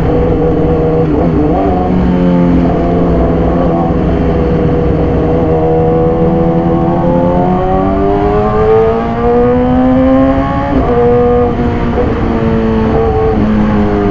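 Yamaha YZF-R6 inline-four engine through an SC-Project exhaust, ridden under way. Its pitch holds steady, then climbs over about three seconds and falls sharply about eleven seconds in at an upshift, then steadies again.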